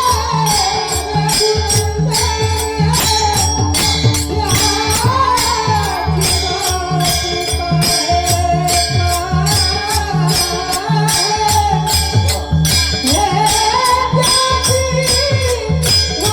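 Marathi devotional bhajan: a singer holds long, wavering melodic lines over a steady hand-drum beat and small cymbals.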